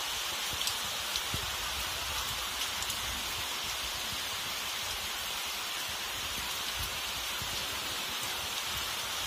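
Heavy rain pouring steadily in a summer downpour: an even hiss of rain on streets and rooftops, with a few faint drop taps in the first second or so.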